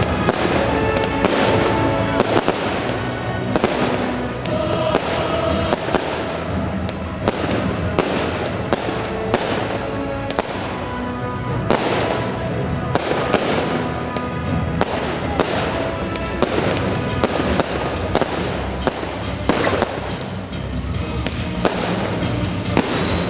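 Aerial fireworks bursting in a rapid, irregular string of sharp bangs, often more than one a second, over loud epic-style music playing continuously for the display.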